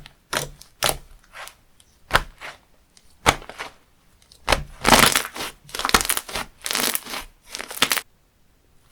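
Textured slime being squeezed and pressed by hand, giving irregular crisp crunching and crackling bursts that come thicker in the middle and stop about a second before the end.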